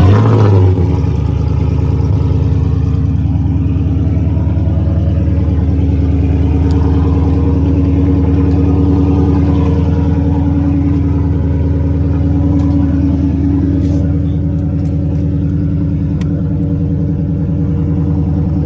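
Ford Mustang GT's 5.0 V8 running through an exhaust with both mufflers removed and a resonator delete. It flares loudly right at the start, as at start-up, then settles into a steady, loud idle.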